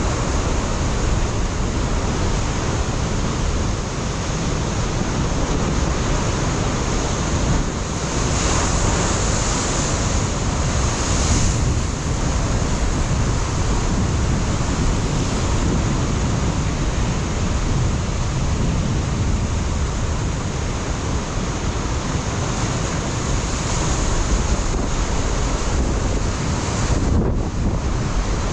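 Ocean surf breaking and washing against a rocky shoreline in a continuous roar, swelling a little louder twice, with low wind rumble on the microphone.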